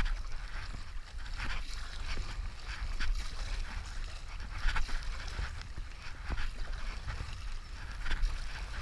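Paddle strokes splashing in river water, a swell of rushing splash about every second and a half, over a steady low rumble of wind buffeting the microphone.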